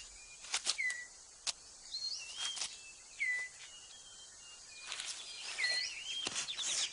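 Forest birds calling: short whistled notes, several sliding down and a couple stepping up in pitch, with a few sharp clicks in between and a faster burst of chirps near the end.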